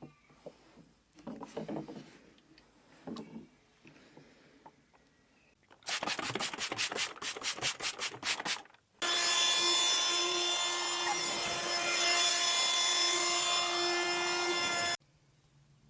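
Faint rubbing and handling sounds, then a quick run of scrubbing strokes, about four a second, for about three seconds. An electric carpet-washing machine's motor then runs steadily with a whine for about six seconds and cuts off suddenly.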